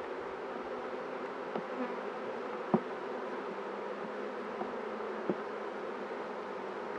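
Honeybee colony buzzing steadily around the open hive, a dense continuous hum. A few light knocks sound over it, the sharpest about three seconds in.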